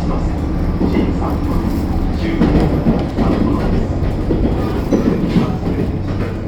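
Inside a Limited Express Hokuto diesel train running at speed: a steady low engine hum under rumbling wheel and track noise, with irregular knocks from the wheels over the rails.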